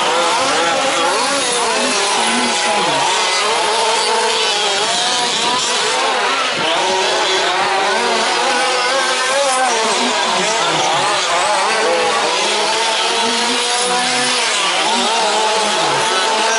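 Several 1/5-scale RC race trucks with small two-stroke petrol engines racing together. Their engines rev up and down continually and overlap, each rising and falling as the trucks speed up and brake around the track.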